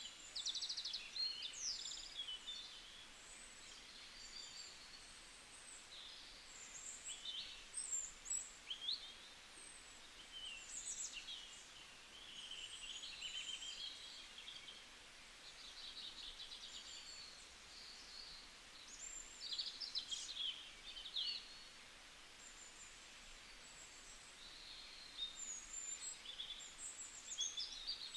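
Several birds chirping and singing at once, short calls and trills overlapping without pause, over a faint steady background hiss.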